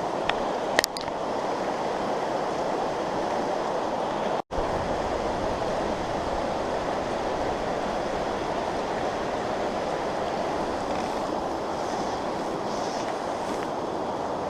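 Steady rush of a fast-flowing trout stream, with a couple of sharp clicks just under a second in and the sound cutting out for an instant about four seconds in.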